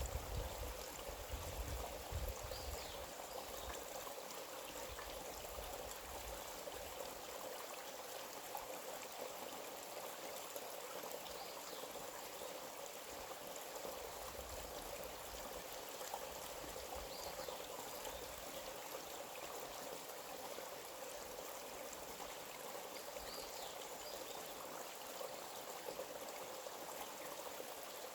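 Forest stream flowing steadily, with a few faint, brief high chirps now and then. A low rumble fades out in the first few seconds.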